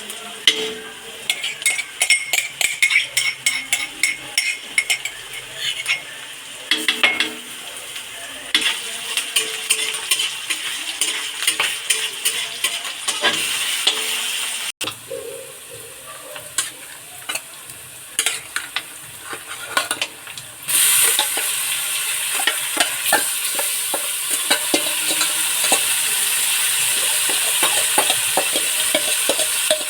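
Food frying in a kadhai while being stirred, the utensil clicking and scraping against the metal pan over a sizzle. About two-thirds of the way through, the sizzling suddenly becomes much louder and steadier.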